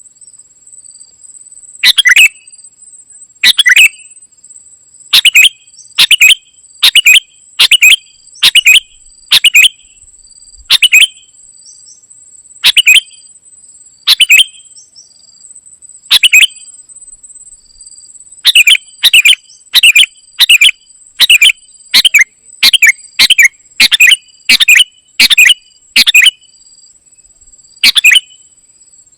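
Kutilang emas (a bulbul) giving short, loud, sharp chirps again and again. They are spaced a second or two apart at first and then come in a quick run of about one to two a second. A faint, steady high-pitched tone runs under them throughout.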